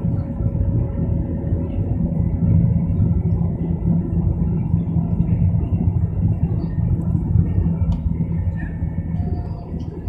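Boeing 737 cabin noise during takeoff: a steady low rumble of the jet engines and airflow.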